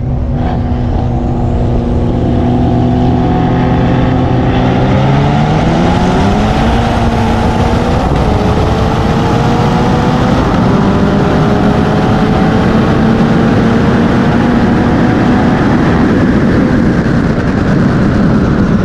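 Turbocharged car engine droning steadily at cruise, then pulling hard from a roll about five seconds in, its pitch climbing through the gears with upshifts around eight and eleven seconds, under heavy wind and road noise.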